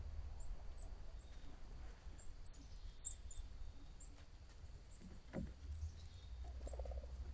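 Faint outdoor feeder ambience: scattered, faint high chirps from small birds over a steady low rumble, with a single soft tap about five seconds in.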